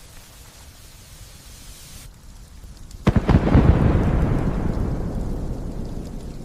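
Light steady rain hiss, then about three seconds in a sudden loud thunderclap that rumbles and slowly fades.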